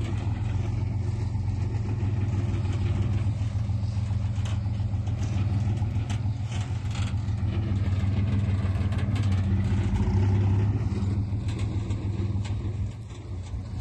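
Heavy construction machine's diesel engine running steadily, with scattered clicks and knocks over it; it gets quieter near the end.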